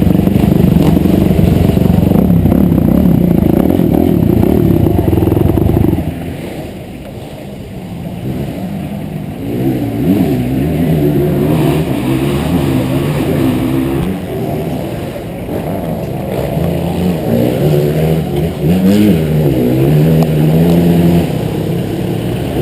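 Motocross bike engine running hard at high revs, then dropping back about six seconds in and being blipped up and down repeatedly, its pitch rising and falling with each rev.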